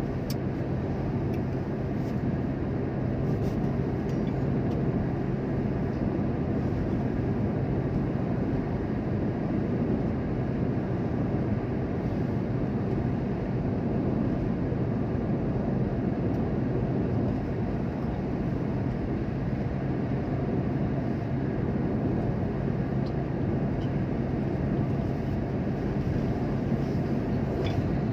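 Steady drone of a moving vehicle, an even engine and road noise with a low hum that holds without change.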